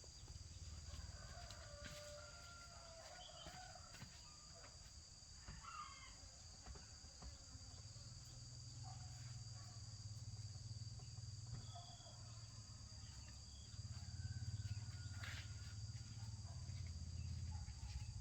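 Faint chicken calls, including a rooster crowing, over a low steady hum that grows louder about halfway through.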